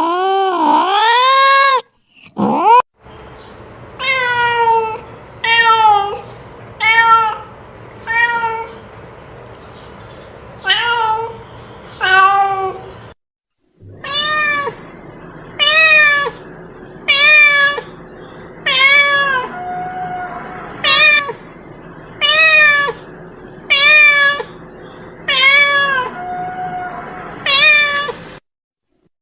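Domestic cat meowing over and over: a longer drawn-out yowl at the start, then a steady series of short meows, each rising and falling in pitch, about one a second, with a couple of abrupt breaks.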